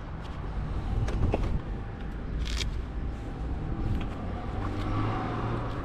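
Motor vehicle engine running with road and traffic noise: a steady low rumble, with a short sharp click about two and a half seconds in.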